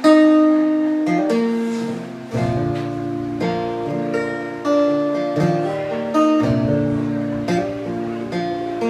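Acoustic guitar playing an instrumental intro of strummed chords, with ringing notes and a low bass line coming in about two seconds in.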